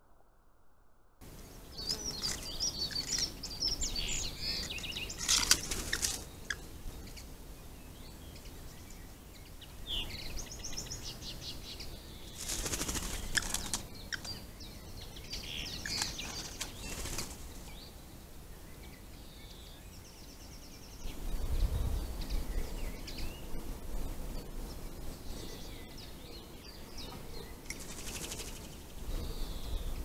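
Small birds chirping and singing at a garden feeder, with several short bursts of fluttering wingbeats as birds fly in and out.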